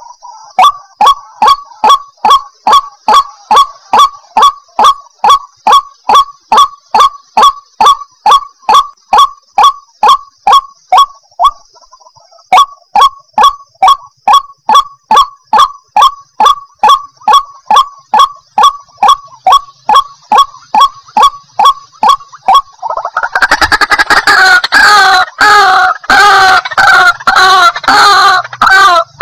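White-breasted waterhen (ruak-ruak) calling a monotonous croaking note over and over, about two or three calls a second, with a short break near the middle. Near the end it gives way to a louder, tumbling run of overlapping calls.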